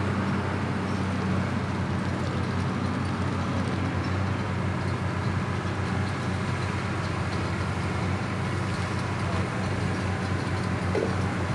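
Bulldozer diesel engines running steadily, a low drone with a wash of mechanical noise.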